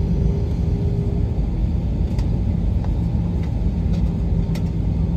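Airbus A321 heard from inside the passenger cabin: a steady low rumble of jet engine and airframe noise with a constant hum under it. A few faint clicks come through near the middle.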